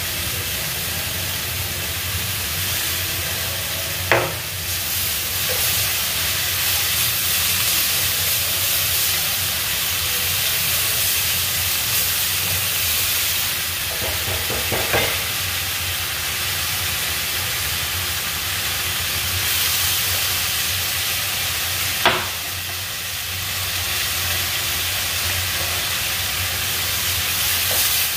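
Squash and eggplant sizzling in a nonstick pan over a gas burner as they are stirred with a silicone spatula, a steady frying hiss. Three sharp knocks cut through it, about 4, 15 and 22 seconds in.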